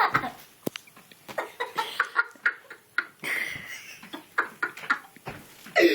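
People laughing and giggling in short, broken bursts.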